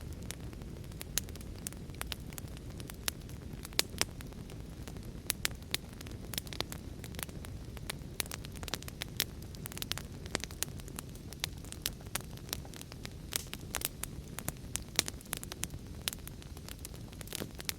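Wood fire burning in a fireplace: a low steady rumble of the flames with frequent sharp, irregular crackles and pops.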